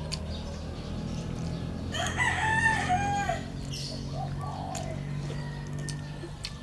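A rooster crowing once, about two seconds in, over a steady low hum and a few faint clicks.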